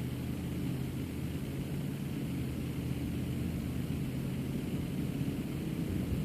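A car's engine and tyres running while driving: a steady low drone.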